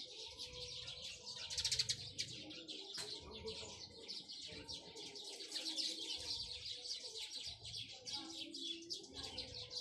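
Small birds chirping continuously in a dense chorus of rapid high chirps, briefly louder about two seconds in.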